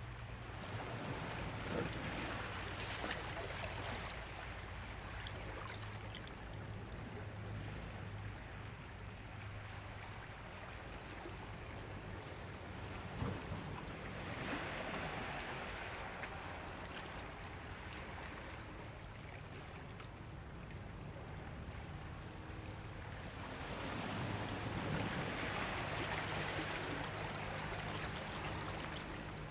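Ocean waves washing in, the surf swelling louder about three times (a few seconds in, midway, and near the end), with a low steady hum underneath.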